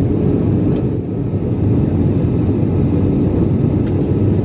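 Airbus A319 cabin noise during the approach: the engines and rushing airflow make a steady, deep hum, with a steady mid-pitched tone and a faint high whine on top.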